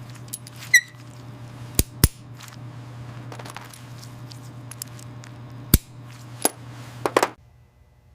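A low steady hum with about six sharp clicks and knocks scattered through it, and a short squeak about a second in. The hum stops near the end.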